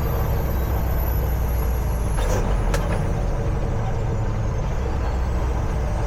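Peterbilt 379 semi truck's diesel engine running under way, a steady heavy rumble heard from inside the cab. A couple of sharp clicks come about two and a half seconds in.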